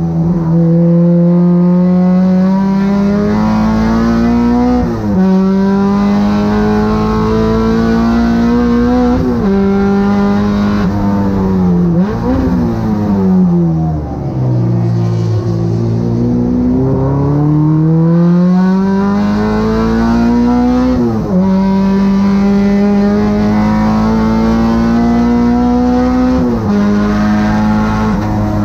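K24-engined Honda Civic race car running at full throttle on track. The engine pitch climbs through each gear and drops sharply at four upshifts. Near the middle the revs fall away over a couple of seconds, then build again.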